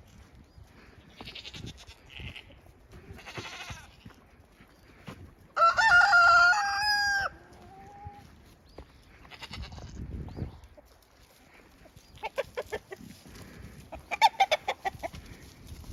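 A rooster crows once, loudly, about six seconds in, with hens clucking around it and a quick run of clucks near the end.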